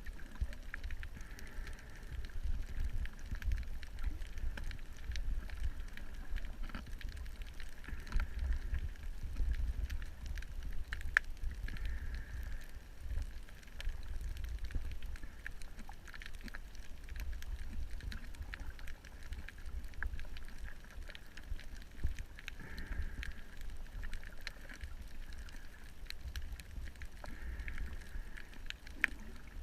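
Underwater ambience from a camera in a housing: a steady low rumble with scattered faint clicks.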